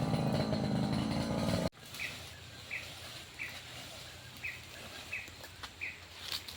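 Brush cutter engine running steadily, cut off abruptly about a second and a half in. Then a quieter outdoor background with short high chirps repeating roughly every 0.7 seconds.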